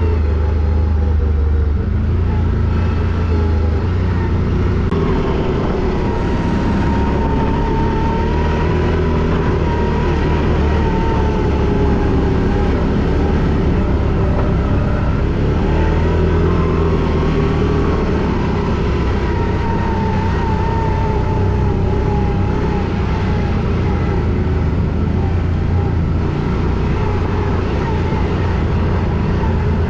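ATV (quad bike) engine running while riding, its pitch rising and falling gently with the throttle.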